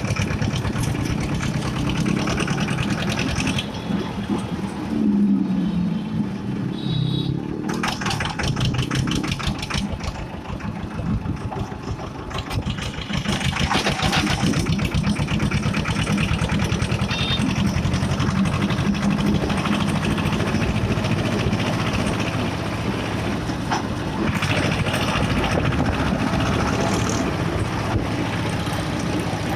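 Escorts 335 tractor's diesel engine running, a dense, even stream of firing pulses. It eases off about four seconds in and comes back up to full level around thirteen seconds in.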